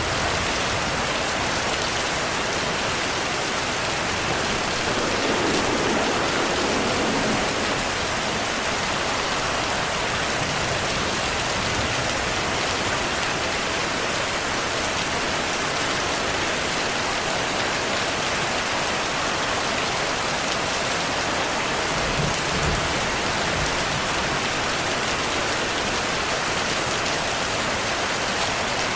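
Steady rainfall, an even hiss of falling rain, with two brief low thunder rumbles swelling under it.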